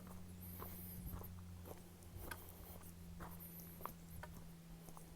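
Faint footsteps while walking up a road, soft irregular ticks about two a second, over a steady low hum.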